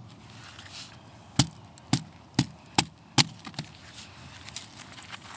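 Firewood being chopped: five sharp blade strikes into wood in quick succession, about two a second, starting about a second and a half in.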